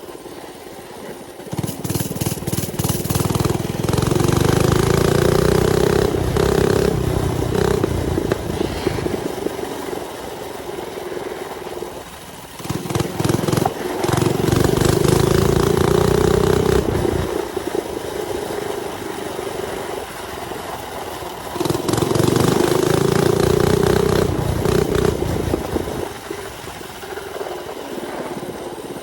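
Mini bike's small engine opened up three times, the pitch climbing as it accelerates each time, then easing off to a lower, quieter run in between.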